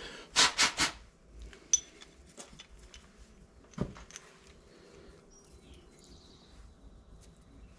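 Hand-tool work on a metal fitting at a bench: three quick scraping strokes in the first second, then a sharp metallic click, a few light ticks and a duller knock. After that it goes quiet.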